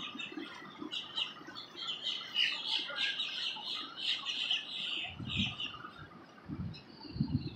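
Birds chirping in a busy string of short high calls, fading out about five seconds in, followed by a few low rumbling gusts near the end.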